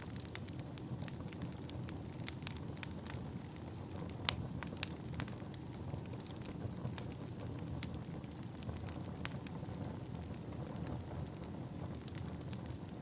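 Wood fire burning in a fireplace, crackling and popping irregularly over a steady low rumble of flame. The loudest pops come about four seconds in.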